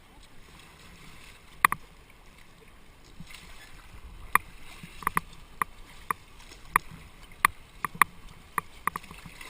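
Kayak paddling on a river: water rushing along the hull, with sharp knocks of paddles against the boat, about one or two a second from around four seconds in.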